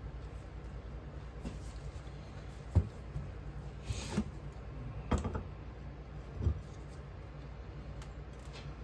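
A few scattered light knocks and a brief scrape from mould-making work with casting flask and sand, over a steady low hum.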